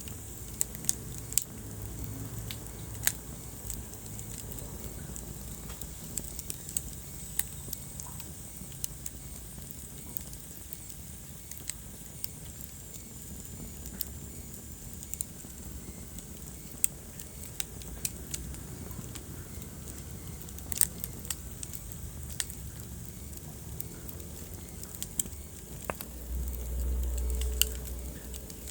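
Wood fire burning in a fireplace, crackling with irregular sharp snaps and pops over a steady low hiss. A louder low rumble swells for a couple of seconds near the end.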